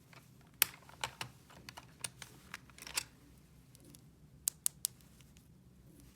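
Light, irregular clicks and taps of small hard plastic toy pieces being handled, then three quick sharp clicks about four and a half seconds in.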